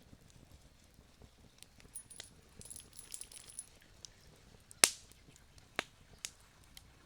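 Wood campfire crackling with scattered sharp pops. The loudest pop comes about five seconds in, and a brief thin high hiss with a cluster of small crackles comes a couple of seconds earlier.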